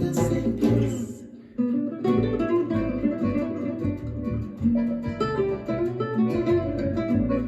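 Acoustic guitar music, plucked and strummed. It dips away briefly about a second and a half in, then a new passage starts.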